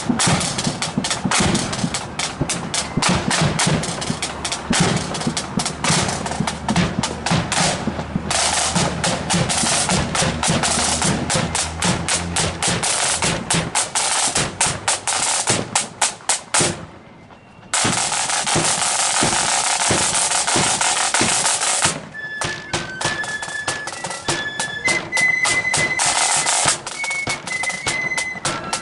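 Marching flute band: snare drums rolling and rattling with bass drum beats, with a brief break about 17 seconds in. About 22 seconds in, the flutes come in with a high melody over the drums.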